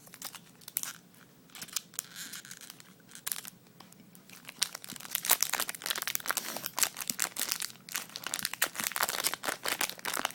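Foil booster pack wrapper of Magic: The Gathering cards crinkling as it is torn open and pulled apart by hand: a few scattered crackles at first, then dense crinkling from a little before halfway.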